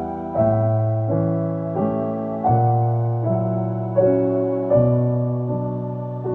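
Background piano music: a slow run of sustained notes over a low bass line, a new chord every second or so.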